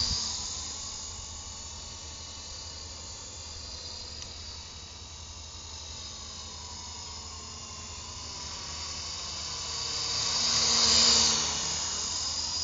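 GT Model 9018 radio-controlled helicopter in flight, its motor and rotor whining steadily. The whine slowly bends in pitch and swells to its loudest about 11 seconds in as the helicopter comes close.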